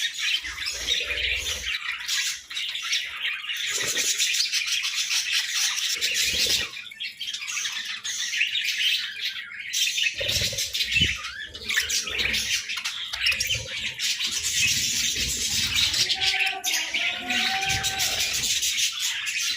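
A flock of budgerigars chattering and chirping continuously, with occasional soft low thuds.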